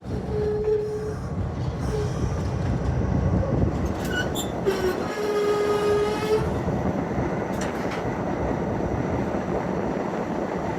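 A train running with a steady low rumble, and a held tone sounding twice: briefly about half a second in, then for over a second around the middle.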